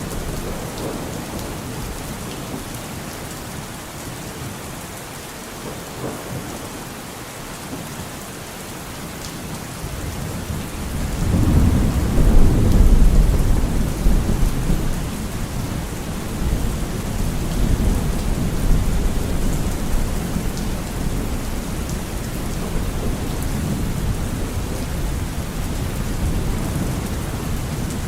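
Steady rain falling, with a long roll of thunder that swells about eleven seconds in, is loudest a few seconds later, and goes on rumbling more quietly after that.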